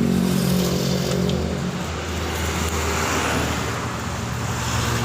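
Road traffic passing close by: a motor vehicle's engine hums and fades after about two seconds, then the rush of another passing vehicle swells and a low engine hum comes back near the end.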